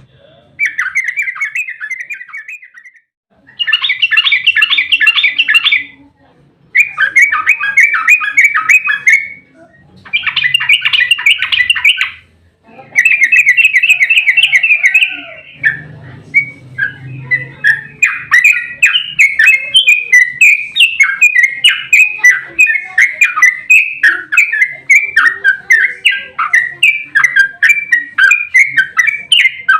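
Yellow-vented bulbul (trucukan) singing rapid, rolling chattering phrases in bursts of two or three seconds with short pauses between them. From about the middle, the notes run on without a break as a steady stream of quick notes.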